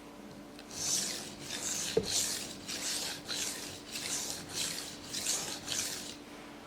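Knife blade stroked back and forth on a King Deluxe 300 grit waterstone: about nine rhythmic scraping strokes, a little under two a second, with a sharp click about two seconds in.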